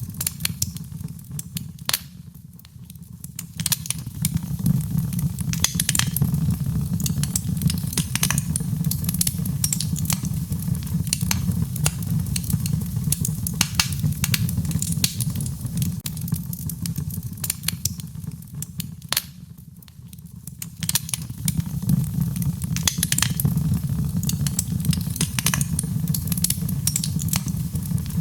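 Wood fire crackling in a fireplace: a steady low rumble of flames under frequent sharp pops and snaps, easing off briefly twice.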